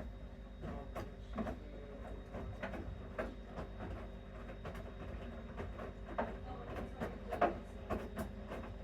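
Bosch Series 6 washing machine running its main wash: a steady low motor hum as the drum turns, with frequent irregular light clicks and knocks.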